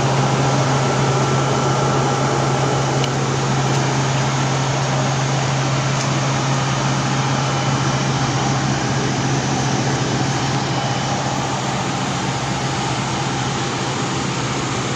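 A steady mechanical hum with an even rushing noise, unchanging throughout.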